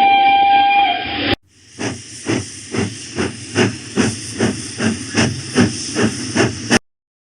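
Recorded steam locomotive sound. The whistle blows a steady chord for about a second and a half and cuts off. Then the engine chuffs in an even rhythm, about two and a half puffs a second, and stops abruptly near the end.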